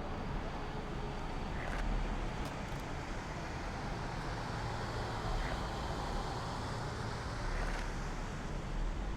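Road traffic noise: a steady rush of passing vehicles, with no single engine standing out.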